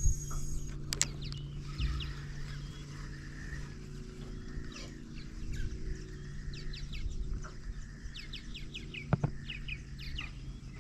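A bird calling in quick runs of short, sharp repeated notes, over a steady low hum.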